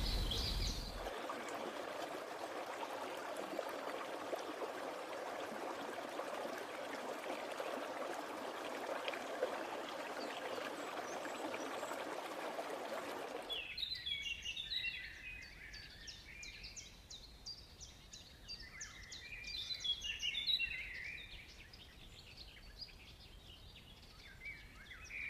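Steady running water for about the first half, then it cuts off abruptly and many birds chirp and call in quick, high notes over a quiet background.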